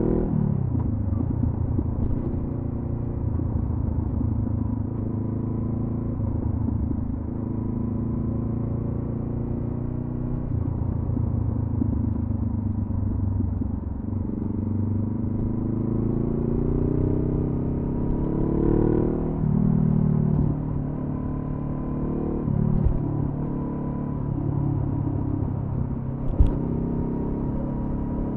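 Honda CB500F parallel-twin engine running through a Delkevic carbon slip-on exhaust while riding. The engine note falls at first, cruises steadily, climbs gradually for several seconds and then drops sharply as the throttle closes or it shifts, rises and falls once more, and one short knock comes near the end.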